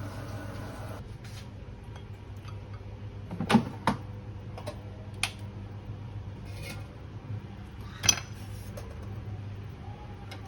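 A few sharp clinks of utensils against dishes, the loudest two coming about three and a half seconds and eight seconds in, over a steady low hum.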